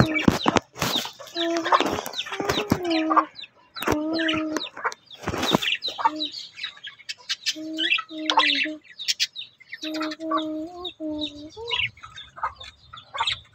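Birds calling: a run of short, steady-pitched calls in groups, with brief high chirps in between.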